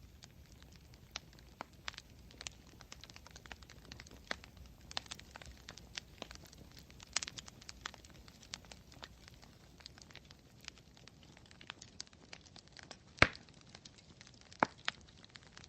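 Campfire crackling: burning wood snapping in many irregular small pops over a low hiss, with two louder pops near the end.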